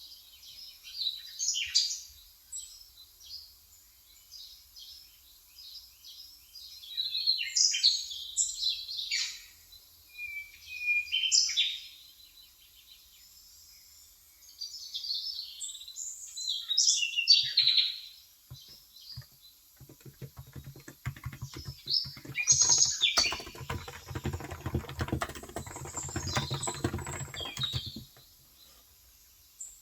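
Birds chirping and twittering in bursts throughout. For about eight seconds in the last third, fast typing on a Cox Endeavor 35 g electro-capacitive (Topre-style) tenkeyless keyboard, a rapid run of soft keystrokes.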